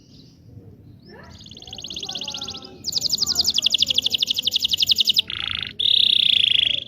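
Canary singing: a rapid rattling trill begins about a second in, and a louder, higher trill follows about three seconds in. These give way to a short buzzy note and then a held whistle near the end.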